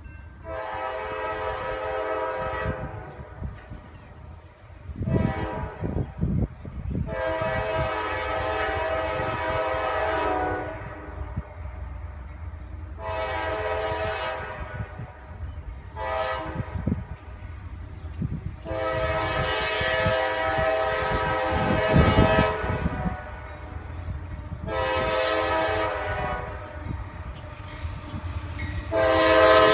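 CSX freight locomotive's air horn sounding a chord in a series of six blasts, long and short in turn, warning at crossings, louder near the end as the train draws near. Between the blasts there is a low rumble of the train, with a few heavy low thumps.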